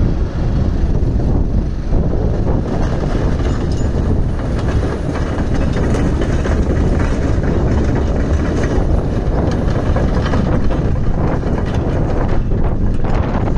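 Komatsu PC210LC-10 hydraulic excavator's diesel engine running with a steady low rumble.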